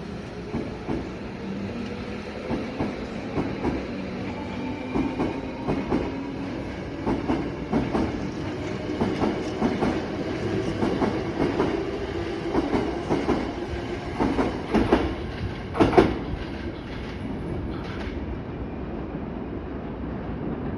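Hankyu new 1000 series electric train pulling out and gathering speed, its wheels clicking over the rail joints faster and faster under a low rumble, with a faint rising motor whine. The loudest click comes about three quarters of the way in, and the clatter dies away soon after, leaving a steady rumble.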